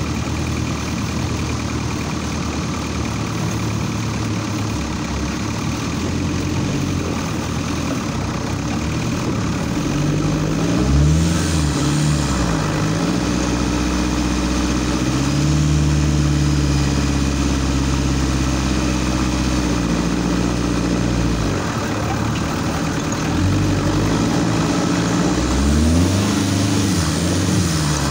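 Off-road 4x4's engine pulling over rough terrain. It runs low and steady at first, its revs rise and dip about ten seconds in, hold higher for several seconds, then swing up and down again near the end as it climbs a steep bank.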